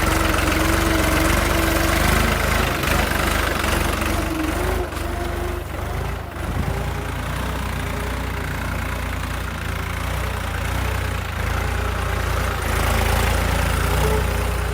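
Tractor engine running steadily, a continuous low rumble with a slight change in pitch near the end.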